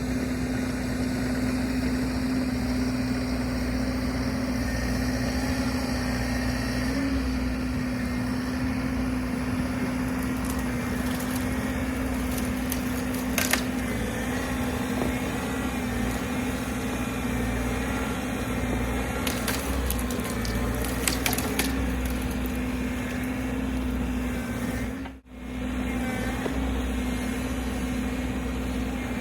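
Bobcat E60 compact excavator's diesel engine running steadily under working throttle, with a few sharp knocks and scrapes as the bucket works dirt and roots at a tree stump. The sound drops out for a moment near the end.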